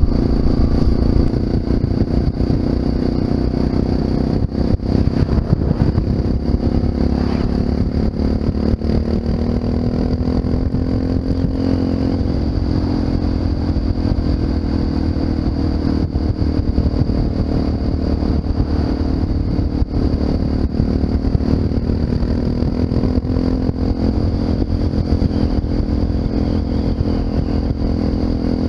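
Honda FMX650 supermoto's single-cylinder engine through an Arrow aftermarket exhaust, running steadily under way with small rises and falls in revs.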